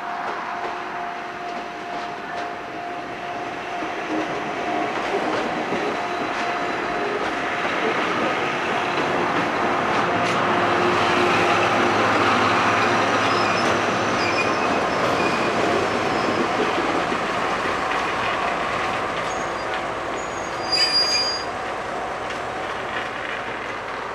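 Okuizumo Orochi trolley train's coaches rolling past at low speed, wheels rumbling and clicking over the rails, swelling to a peak about halfway and then easing off. A brief sharp high-pitched squeal about three seconds before the end.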